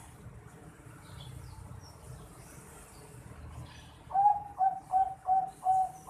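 Young Bangkok zebra dove (perkutut) calling: about four seconds in, a quick series of five short, loud coo notes on one pitch, leading into a longer drawn-out note at the end.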